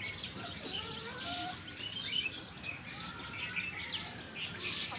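Birds chirping, many short calls overlapping over a faint steady hiss.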